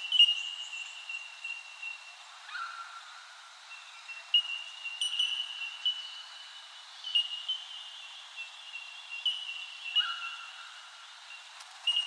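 Birds calling in a steady chorus of short, clear high notes, repeated every second or two. A lower note comes in twice.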